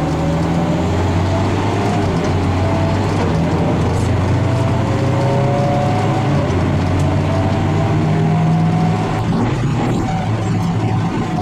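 Farm tractor engine running steadily under load, with a whine that rises slowly in pitch again and again.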